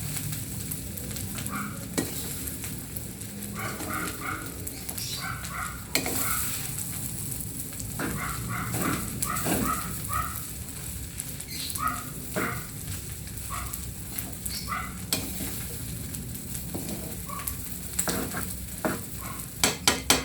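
Food frying and sizzling in a pan while being stirred, with scattered clicks and scrapes of a utensil against the pan.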